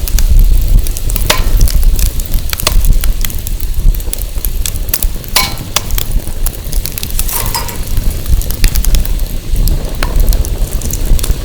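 Firewood burning, crackling with many scattered sharp pops, over a steady low rumble of wind buffeting the microphone.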